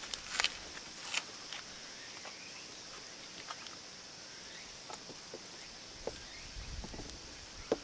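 Outdoor campsite ambience: a steady high hiss with scattered sharp clicks and a few faint short chirps.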